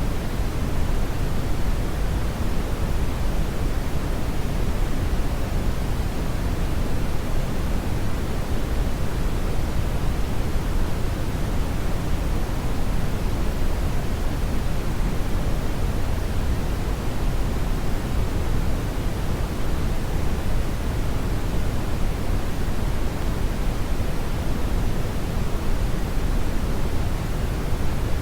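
Steady brown noise: a constant deep hiss with no events or changes, strongest in the low end and falling away toward the highs.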